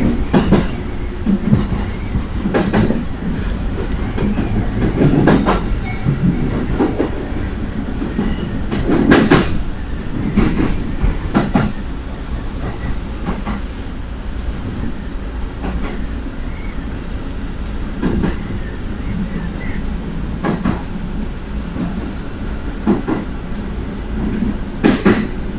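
Passenger train running, a steady rumble with irregular clacks and knocks from the wheels over the rails.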